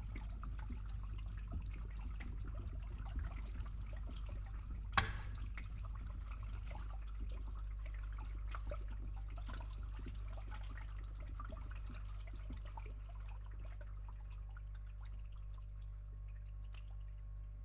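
Water dripping and trickling in many small irregular drops, with one sharper, louder drop about five seconds in, over a steady low hum.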